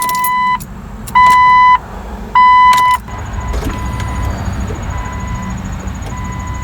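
Jeep Cherokee's dashboard warning chime beeping steadily, three loud beeps about every 1.2 seconds and then fainter ones, with a low rumble underneath in the second half. The key is turned to start, but the starter stays silent, without even a click: a sign the owner takes for a failing starter.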